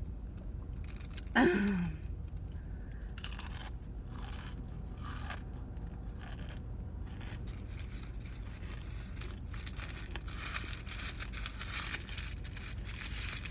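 Close-up chewing and crunching of fast food, with a brief loud falling-pitched vocal sound about a second and a half in, over a steady low hum.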